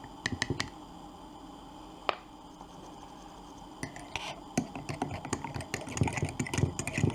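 Light, quick tapping, about six taps a second, as glitter is tapped out of its container into a glass jar of water and glycerin. The tapping stops half a second in. A single sharp click follows about two seconds in, and a run of louder knocks and handling noises comes near the end.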